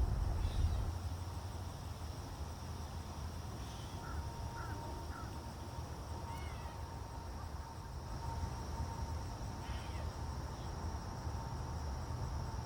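Outdoor pond-side ambience: a steady insect drone with a few short, scattered bird calls over a low rumble.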